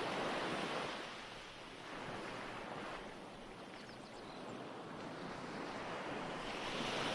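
Ocean waves washing on a shore: a soft, even surf hiss that ebbs about a second in and swells again toward the end.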